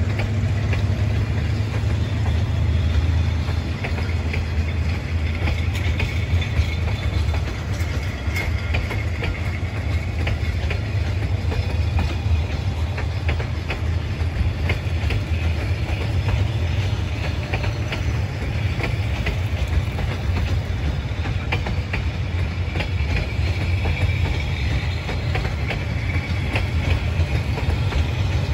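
Passenger coaches of a train rolling steadily past, their wheels clicking over rail joints in a continuous clickety-clack over a deep rumble.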